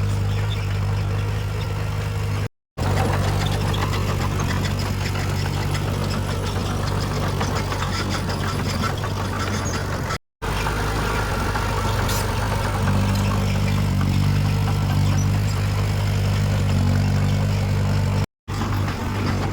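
Heavy diesel engine of earthmoving machinery running steadily under load, a low hum with mechanical clatter over it. The sound cuts out briefly three times, at edit cuts.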